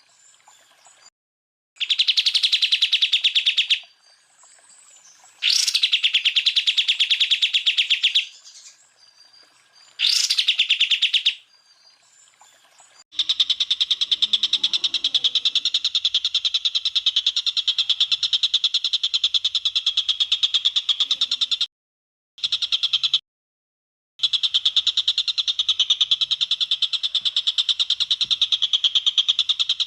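Leafbird (cucak ijo) song of rapid, high trilled 'tembakan' phrases: three bursts of about two seconds each, then a long unbroken trill from about halfway on. The trill cuts out abruptly twice near the end.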